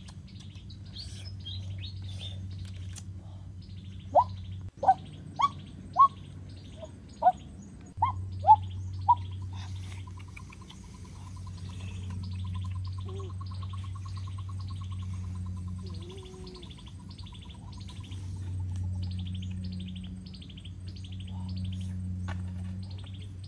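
Birds chirping and singing, with a run of eight loud, short calls that each slide downward about four to nine seconds in, and a fast trill from about ten to sixteen seconds. A steady low hum runs underneath.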